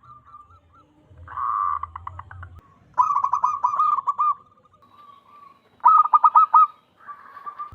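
Zebra dove (perkutut) cooing in quick staccato phrases of rapid notes, with two loud bursts and softer notes between them. A rougher, raspy stretch about a second in.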